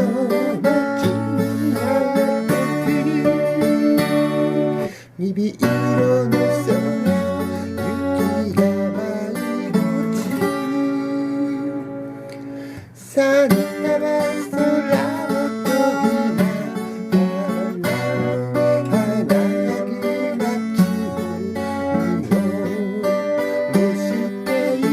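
Music led by acoustic guitar, plucked and strummed. It breaks off briefly about five seconds in, and around the middle there is a softer passage of held notes before it picks up again.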